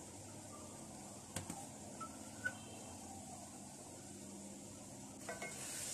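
Faint sizzling of potatoes, onions and tomatoes frying in oil in a karahi, growing a little stronger near the end. A light click comes about a second and a half in, and two short faint high tones come about two and a half seconds in.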